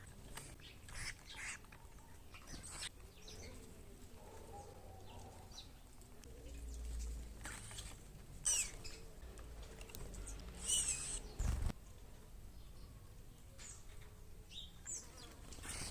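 Small birds chirping in short, scattered calls at a feeding box, with some brief wing flutters.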